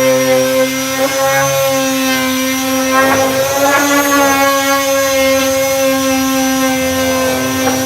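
Power disc sander running steadily with a 240-grit disc on body filler, a constant motor whine that wavers briefly a few seconds in.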